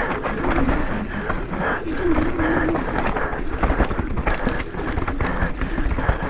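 Mountain bike descending a rough trail: a steady rattle of chain and frame and clatter of tyres over rocks, with wind rumble on the camera microphone.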